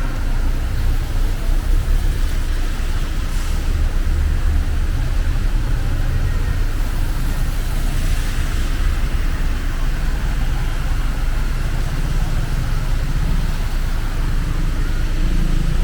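City street traffic running steadily, a continuous low rumble of passing vehicles.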